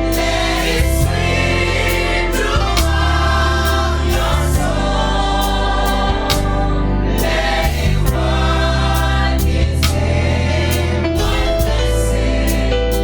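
A group of voices singing a gospel worship song together over instrumental backing, with held low notes and a steady beat.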